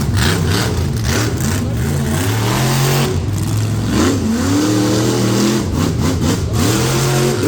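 Monster truck engine revving hard, its pitch climbing and dropping several times as the throttle is worked during a run.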